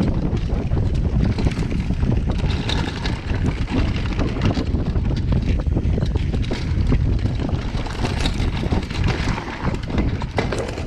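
Wind buffeting a chest-mounted action camera's microphone during a fast downhill mountain-bike descent, a steady low rumble with the tyres on the dirt trail and a constant clatter of short clicks and rattles from the bike.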